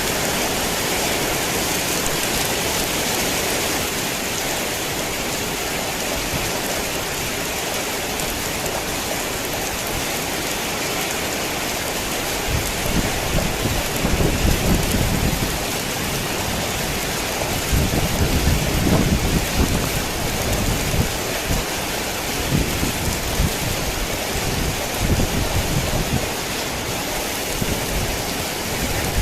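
Heavy rain falling steadily, with low rumbles of thunder rolling in about halfway through and swelling twice before easing off near the end.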